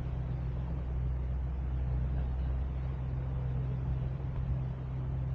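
A steady low engine hum with no change in pitch or level, over a faint even hiss.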